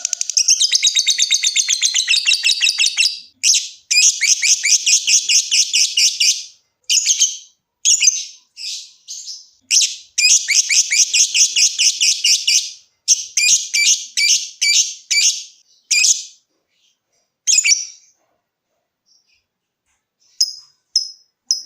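Lovebird ngekek: long runs of very rapid, shrill chattering notes, breaking into shorter bursts after about ten seconds, then a brief pause and short sharp chips near the end.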